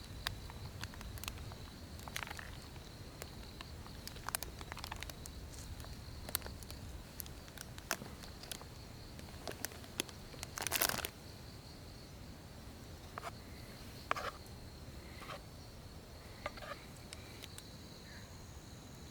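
A steady high-pitched insect call with scattered small clicks and crackles over it, and a louder crinkling rustle about eleven seconds in.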